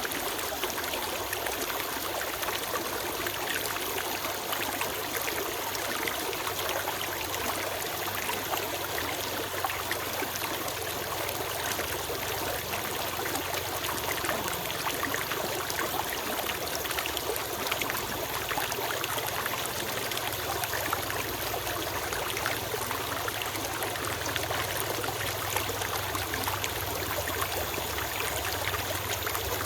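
Small forest stream running over rocks: a steady babbling and trickling of water.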